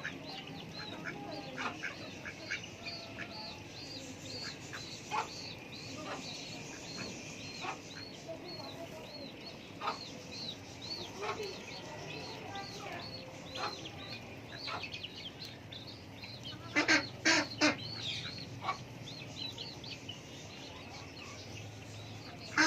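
Backyard poultry calling: scattered short calls, with a high chirp repeating about twice a second through most of it, and a burst of loud, harsh calls about three quarters of the way in.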